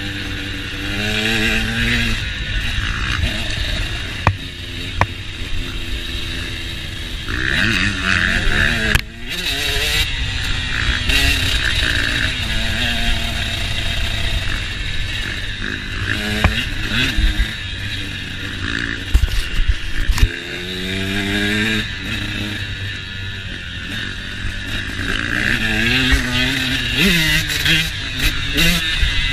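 KTM motocross dirt bike engine revving hard and dropping off again and again, its pitch climbing through each burst of throttle, with heavy wind rumble on the microphone.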